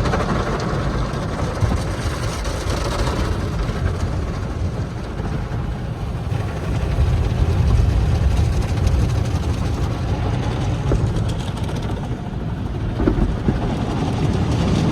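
A car wash tunnel's spinning cloth brushes and water spray working over a car, heard from inside the car as a steady, dense low rumble and wash.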